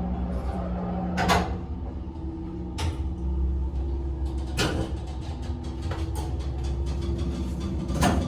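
1986 MLZ passenger elevator's machinery giving a steady low hum, which grows stronger about three seconds in. Four sharp clunks fall about a second, three, four and a half and eight seconds in.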